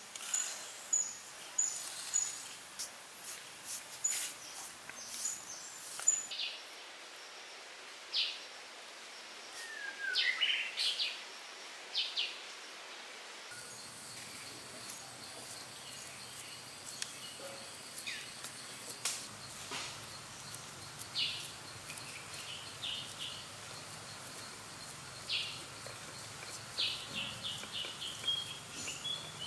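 Birds chirping in short, repeated high calls over a steady outdoor background hiss, with one falling whistled note about ten seconds in; the background shifts abruptly a couple of times.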